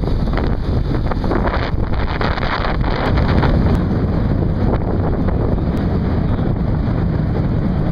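Wind buffeting the microphone on the deck of a ship at sea, over a steady low rumble from the vessel, louder for a moment about three seconds in.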